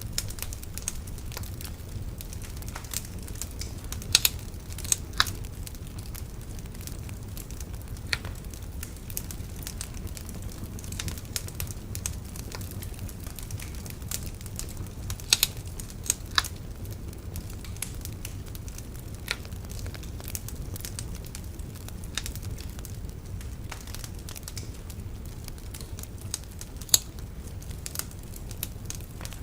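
Wood bonfire burning steadily, with a low rumble of flame and irregular sharp crackles and pops of burning wood, a few louder pops standing out.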